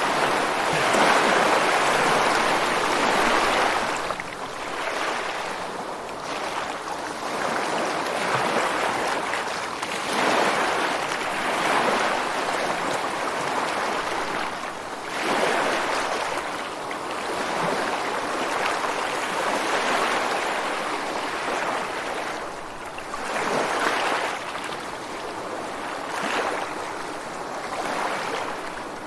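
Ocean waves breaking and washing onto rocks and sand, the surf rushing and swelling every few seconds with a loud break near the start.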